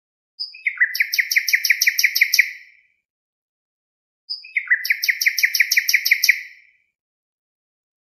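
Bird song: two identical phrases a few seconds apart, each a short opening note followed by a quick run of about ten even notes, fading at the end.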